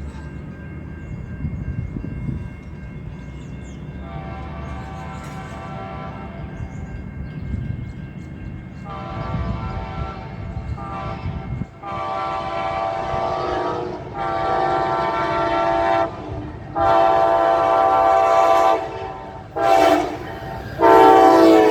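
Amtrak Northeast Regional passenger train approaching with its air horn sounding, first faint and distant, then a series of blasts growing louder. The last four go long, long, short, long, the grade-crossing warning, over a low rumble of the train.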